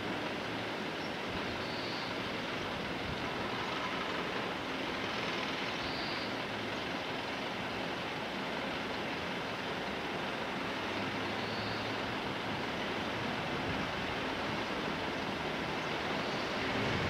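EF210 electric freight locomotive approaching slowly at the head of a freight train: a steady running noise with a faint low hum.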